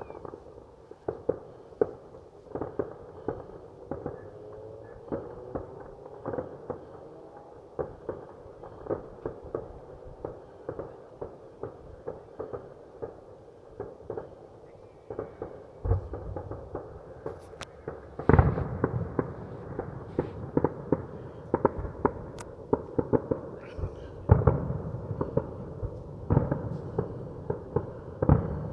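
Fireworks going off: a continuous run of sharp pops and crackles, with heavier, deeper bangs starting about two-thirds of the way in.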